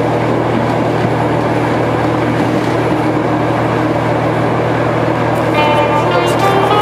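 Steady running noise of a moving SNCB passenger train heard from inside the carriage, with a low hum under it. About five and a half seconds in, plucked music notes begin over it.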